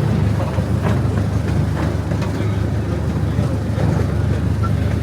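Small park train running, heard from aboard: a steady low rumble of the locomotive and rolling wheels, with a few faint clicks scattered through it.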